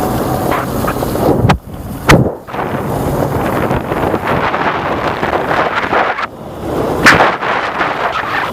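Wind rushing over the microphone of a moving motorcycle, with vehicle noise underneath. A few sharp knocks, about one and a half, two and seven seconds in.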